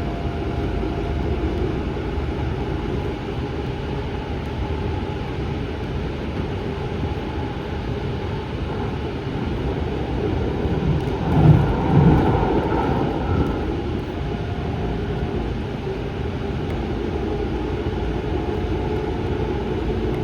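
Light rail car running at speed, heard from inside the car: a steady rumble of wheels on the track and the car's running gear, briefly louder about halfway through.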